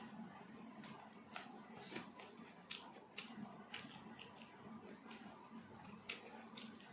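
Faint eating sounds: chewing roti and chilli chicken, a string of irregular soft clicks and mouth smacks.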